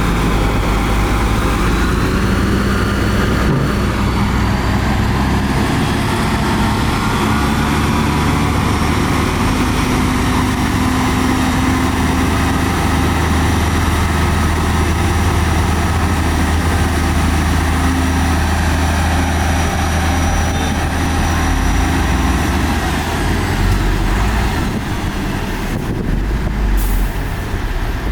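Heavy diesel earthmoving machinery running steadily under load, with a thin high whine over the engine note and a short hiss near the end.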